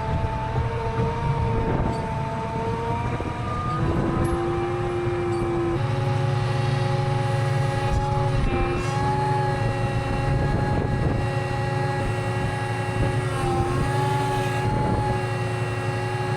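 Tractor engine running steadily under load, a drone with whining tones that step to a new pitch a few times as the engine speed changes.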